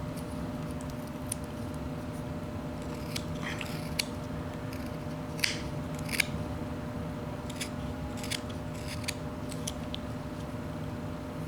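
Whittling knife making short slicing cuts into a small wooden bird carving, a dozen or so crisp, irregularly spaced cuts, the loudest a little past the middle, over a steady electrical hum.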